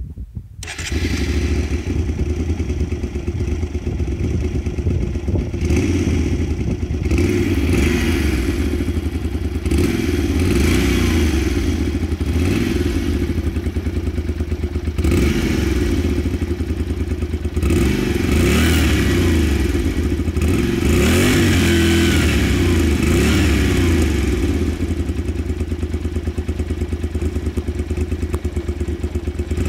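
Honda Varadero 125's V-twin engine running through an emptied, baffle-less exhaust silencer. It comes in about a second in and is revved up and let back down several times between spells of idle.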